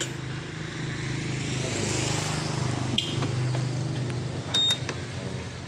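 Honda PCX 160's single-cylinder engine running at a steady idle through a Daytona GP Taper Slash racing exhaust with its silencer insert fitted, rising gently in revs about two seconds in. A short high beep sounds near the end.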